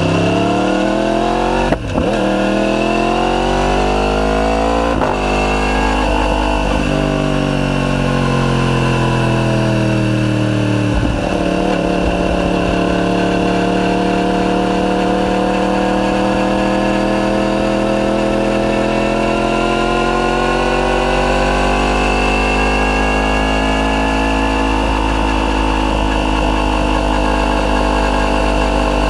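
Yamaha YZF-R1's crossplane inline-four, breathing through a decatted Akrapovic full titanium exhaust, accelerating hard up through the gears. The engine note climbs and drops at four upshifts in the first eleven seconds, then climbs slowly and steadily in a high gear.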